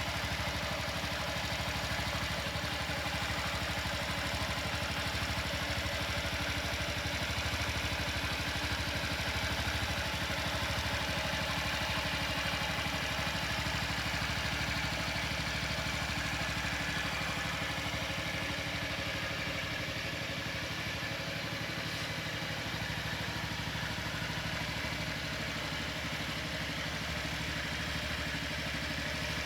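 2006 Honda Zoomer scooter's 49 cc four-stroke single-cylinder engine idling steadily.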